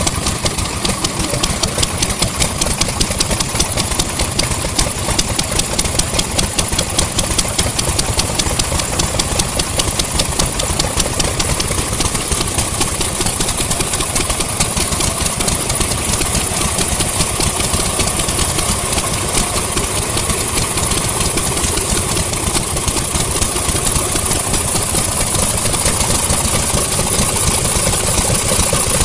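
Vintage engines running steadily, a rapid even train of firing beats with no change in speed.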